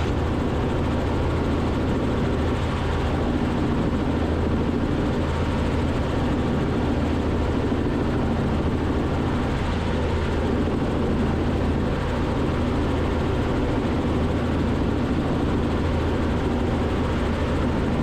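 Robinson R44 helicopter's engine and rotor noise in cruise, picked up through the cabin intercom: a steady drone with a low hum that does not change.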